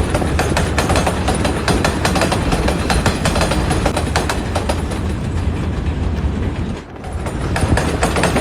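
Lego model subway train running along plastic track, its wheels clicking rapidly over the track joints above a steady low rumble. The sound dips briefly about seven seconds in.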